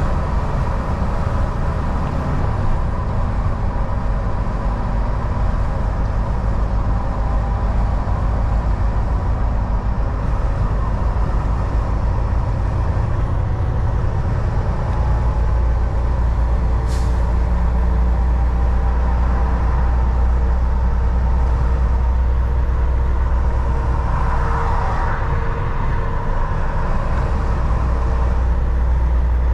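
Volvo VNL 760 semi truck cruising on the highway, heard from the cab: a steady low drone of diesel engine and road noise, with a brief sharp sound about seventeen seconds in.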